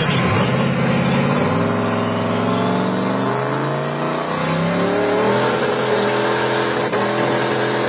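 Built 2006 LBZ Duramax turbo-diesel engine revving hard, its pitch climbing in steps. A high turbo whistle rises from about three seconds in and then holds.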